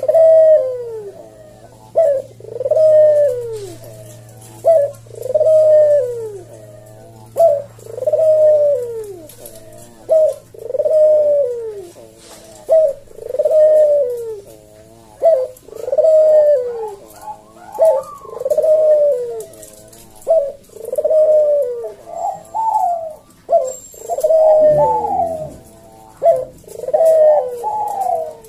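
A puter (Barbary dove) cooing over and over in full song. Each phrase is a short note followed by a long coo that falls in pitch, repeated about every two and a half seconds.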